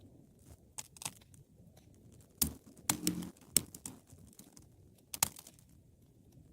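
Wood fire burning with a low, steady rush of flame and sharp crackles and pops. A few small crackles come about a second in, a loud cluster of pops between about two and a half and four seconds, and one more loud pop just after five seconds.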